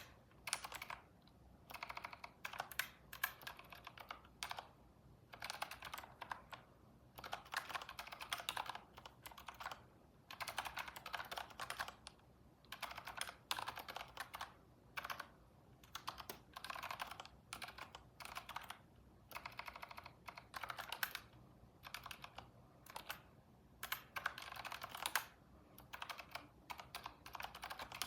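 Computer keyboard typing in quick runs of keystrokes, with short pauses between bursts.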